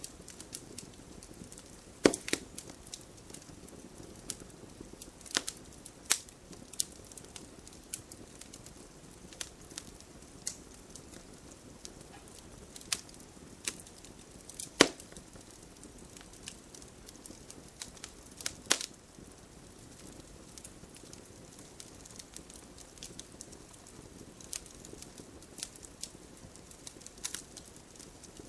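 Wood campfire crackling, with irregular sharp pops and snaps over a low hiss; the loudest pops come about two seconds in, around the middle and a little later.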